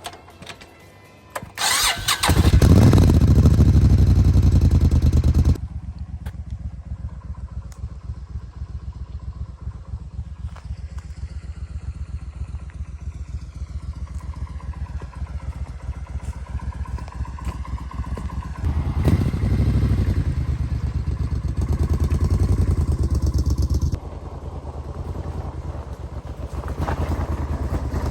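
Suzuki Intruder 1400 V-twin motorcycle engine starting about two seconds in and revving briefly, then idling with an even pulsing beat. It revs up again about two-thirds through, drops back, and rises again near the end.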